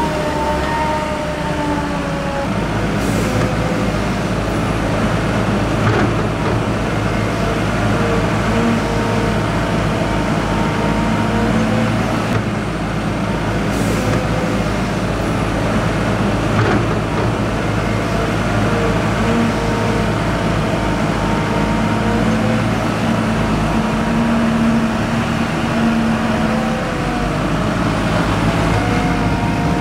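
Large diesel farm machinery running steadily, a heavy engine drone with a whine that drops in pitch in the first couple of seconds, then holds with small changes in speed.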